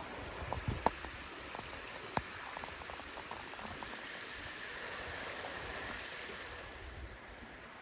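Steady rushing of running water, with scattered light clicks and knocks in the first few seconds.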